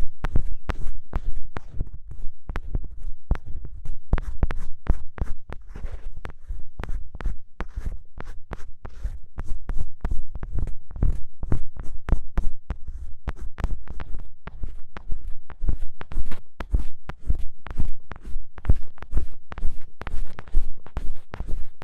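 Ear pick scratching firmly and fast against a microphone's ear, short rough scraping strokes several a second, close and heavy in the low end.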